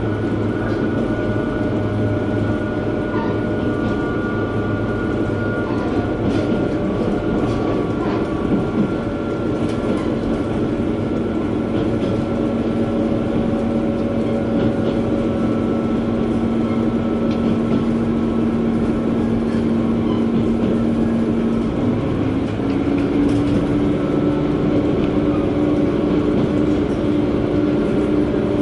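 Inside a JR West KiHa 120 diesel railcar under way: a steady rumble of engine and wheels on rail, with a few faint clicks. The engine note steps up in pitch about three-quarters of the way through.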